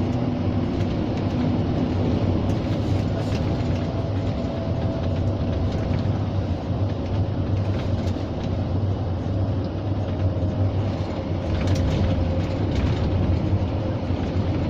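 Scania G 460 truck's six-cylinder diesel engine running steadily while the loaded truck drives along, a constant low drone with road rumble.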